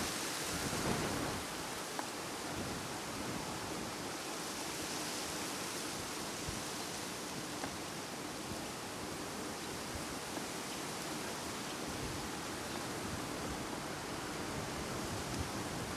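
Steady rushing wind noise outdoors, with a stronger gust right at the start.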